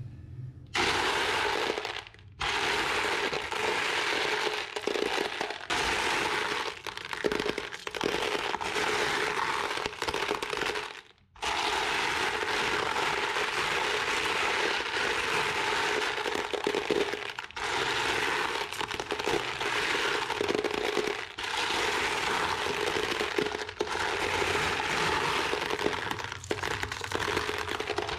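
Toy mini tractor rolling over rough ground, its wheels and load making a continuous crackling, crunching noise with a few short pauses.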